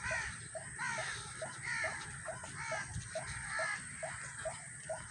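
White-breasted waterhen (Amaurornis) calling in a steady repeated series: short low notes about three a second, overlaid by higher falling notes about once a second.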